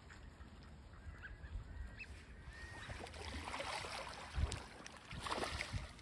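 Birds calling faintly among outdoor background noise, with a few short, thin whistled calls in the first half.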